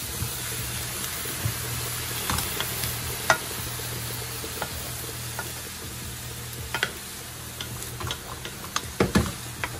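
Ground turkey with onions, garlic and diced peppers sizzling in hot coconut oil in a metal pot while a wooden spoon stirs and scrapes through it. Scattered clicks and knocks of the spoon against the pot, several close together near the end.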